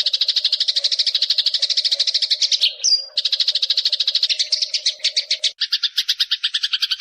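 A songbird's fast, buzzy trill of rapidly repeated notes, about fourteen a second, used as master song for training cage birds. It breaks briefly around three seconds in for one short high whistle, then resumes. From about five and a half seconds in, a lower, coarser trill takes over.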